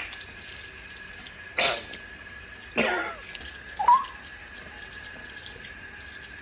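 Pet parrot making a few short, harsh, noisy calls and one brief rising squeak about four seconds in.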